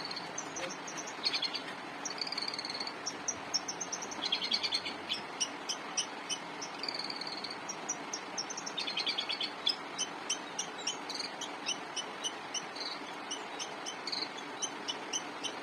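Long-tailed shrike singing busily: phrases of sharp, high chirps and short rattling trills, one after another with brief gaps, over a steady background hiss.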